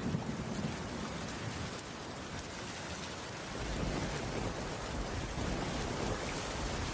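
Steady rain hiss with low rolling thunder: the rumble dies away over the first seconds and a deeper rumble builds again about halfway through.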